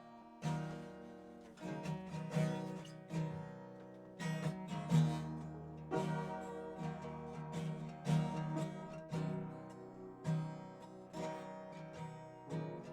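A stringed instrument strummed in chords, one stroke roughly every second or so, with each chord left ringing between strokes.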